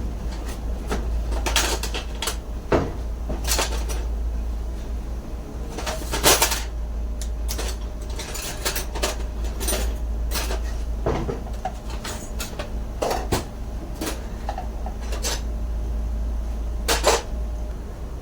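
Irregular clinks and knocks of metal tools and parts being handled during hands-on repair work, over a steady low hum.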